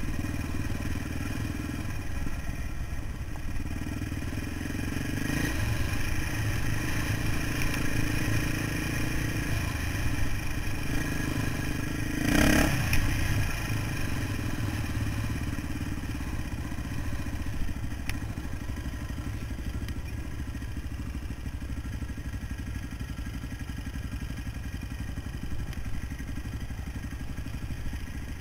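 Off-road motorcycle engine running steadily while riding over rough ground, heard from on the bike, with rattling from the bumpy ride. About twelve seconds in there is a brief, louder jolt or knock.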